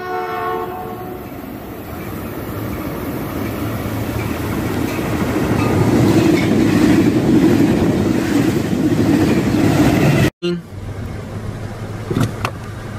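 Caltrain diesel commuter train: its horn chord dies away in the first second, then the train passes close by with a rumble and rail clatter that builds to its loudest after about six seconds. About ten seconds in, the sound cuts off abruptly to quieter street traffic.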